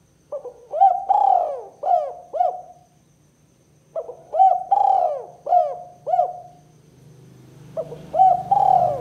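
Spotted dove (tekukur) singing its 'kuk 2' song: three phrases of about five coos each, the middle coo of each phrase the longest and loudest.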